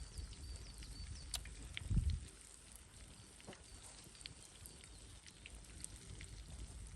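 Scattered crackles and pops from a wood campfire, over a low rumble of wind buffeting the microphone, with a stronger gust about two seconds in.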